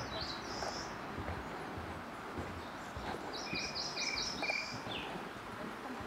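A wild songbird singing: a short high phrase at the start, then a run of about six quick repeated high notes in the middle, over a steady outdoor background hiss.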